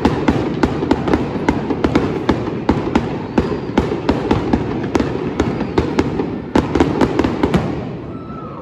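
Fireworks going off in a rapid barrage: many sharp bangs a second over a continuous crackle, dying away near the end.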